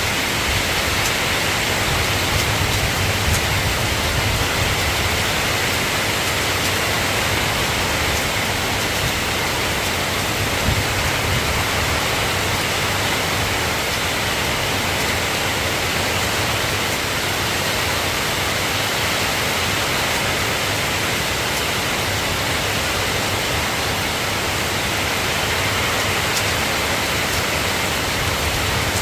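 Steady rain falling as a continuous, even hiss. A low rumble underneath fades over the first few seconds.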